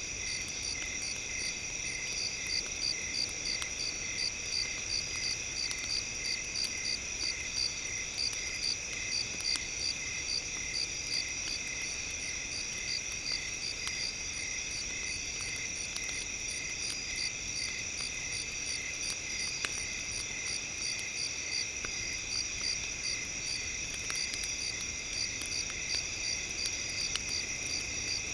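A chorus of crickets chirping, with steady trilling and an even, rapid pulsing. Faint scattered ticks are heard under it, like a campfire crackling.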